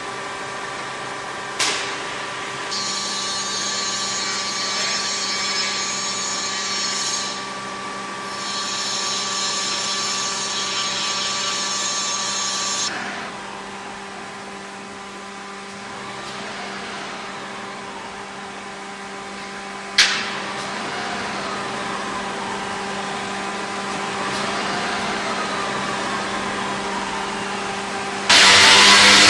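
A machine running with a steady hum of several tones. A high-pitched hissing whine, like a tool cutting, comes in twice for several seconds. There is a sharp click about two seconds in, a sharper knock about twenty seconds in, and a sudden loud noise just before the end.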